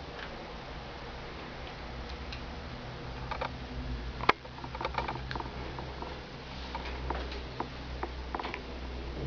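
A pet nosing and pawing at things inside a refrigerator: scattered light clicks and taps, with one sharp click about four seconds in, over a steady low hum.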